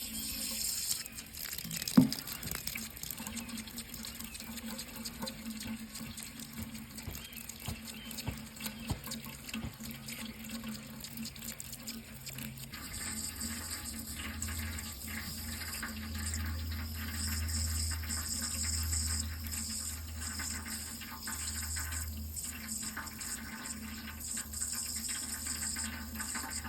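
Water running steadily, like a tap pouring into a sink, with one sharp click about two seconds in. A low hum joins about halfway through.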